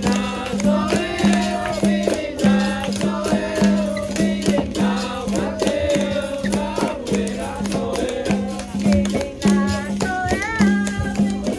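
Capoeira roda music: a repeating low twanging tone with a shaken rattle and percussion keeping an even rhythm, under group singing with a lead voice and chorus.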